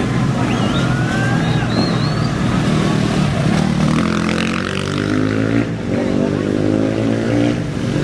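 Off-road racing motorcycle engines running, with one revving harder from about halfway through. A few short high whistles come in the first two seconds.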